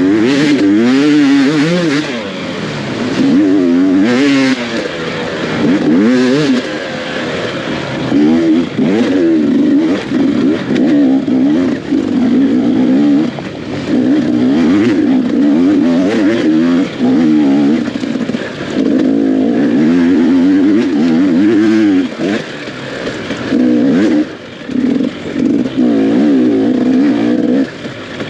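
Enduro dirt bike engine revving hard under race throttle, its pitch swinging up and down again and again as the rider opens and shuts the throttle, with short dips in level every few seconds.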